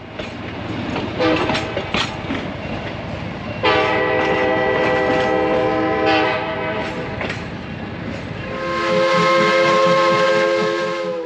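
Narrow-gauge passenger cars rolling past with wheel clicks on the rail joints, then a diesel locomotive's multi-tone air horn sounds twice: a blast of about two and a half seconds, then a longer one starting near the end.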